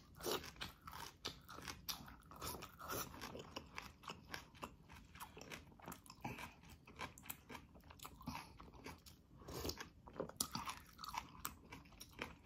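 Close-miked chewing of a mouthful of braised napa cabbage leaf: many quick, irregular crunches and wet mouth clicks.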